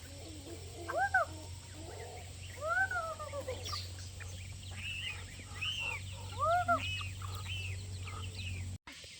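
Chickens calling: a string of separate drawn-out squawks, each rising and falling in pitch, some higher and shorter, over a steady low hum. The sound cuts off abruptly near the end.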